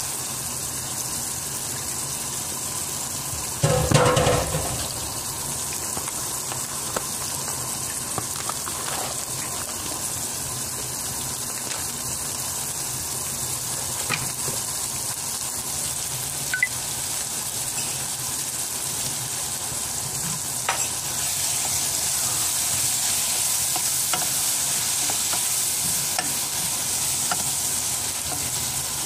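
Sliced onions and tomatoes with turmeric sizzling in a pot on a gas burner, a steady frying hiss with small pops and clicks. About four seconds in there is one brief louder noise, and near the end a wooden spoon stirs the pot.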